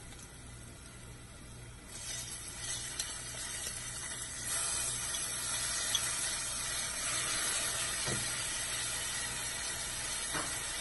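Onions and spices sizzling in hot ghee and oil in an aluminium pressure-cooker pan. The sizzle grows louder about two seconds in and again a little later as fresh coriander and mint leaves go in, with a couple of faint knocks near the end.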